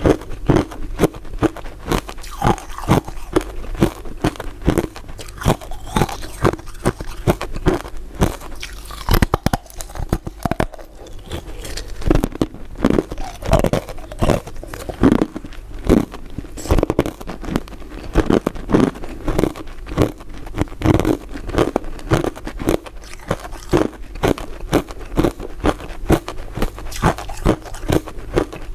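Repeated biting and chewing of crisp crystal ice dessert pieces: a dense, irregular run of sharp crunches, several a second.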